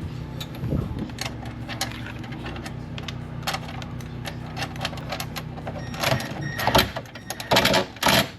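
Metal parts clinking and knocking in a quick, irregular series that gets louder and busier near the end, over a steady low hum.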